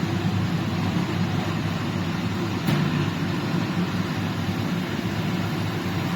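Industrial dehumidifier switched on and running: a steady fan hum with a rush of moving air.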